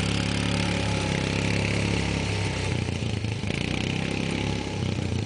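ATV engine running steadily, then becoming more uneven about halfway through as the throttle varies.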